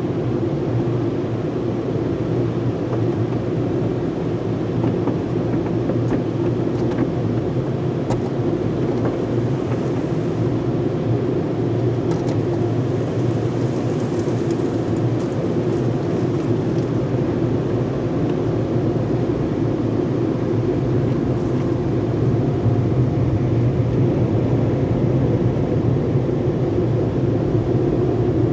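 Sonny's car wash tunnel equipment running with a steady low rumble, growing a little louder near the end.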